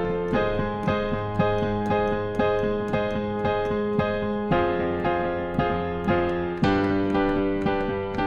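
Piano playing an instrumental passage of struck chords, about two a second, with the chord changing twice along the way.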